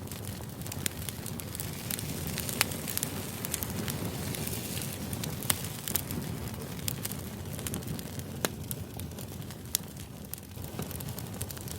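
Steady background noise sprinkled with many irregular, sharp crackles and clicks.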